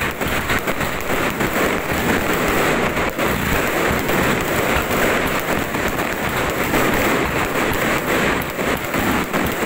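Fireworks going off overhead in a continuous barrage: a dense, loud crackle of many small bangs and pops packed so close that they merge into a steady rattle, with a few heavier bangs standing out.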